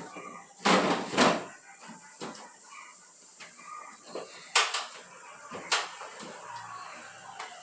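Knocks and clatters of refrigerator shelves and drawers being handled and set in place, loudest about a second in, with two more a little past the middle.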